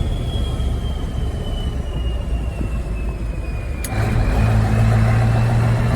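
Scania DSC14 14-litre V8 diesel engine running on the road, with a steady low rumble and a thin high whine that slowly falls in pitch. About four seconds in, the engine note swells louder and holds steady.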